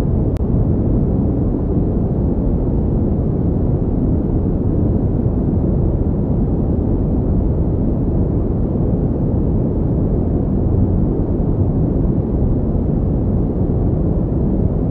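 Synthetic pink noise: a steady, unchanging rushing hiss, deep and dull, with most of its weight in the low end and little treble.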